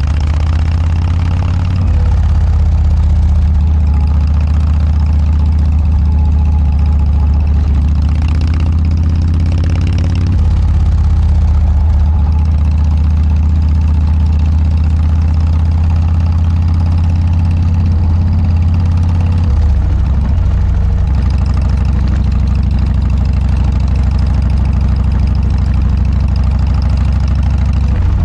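Harley-Davidson Dyna's V-twin running through a Motorstage aftermarket muffler: a loud, steady low exhaust rumble whose pitch shifts a few times, at about 2, 10 and 20 seconds in.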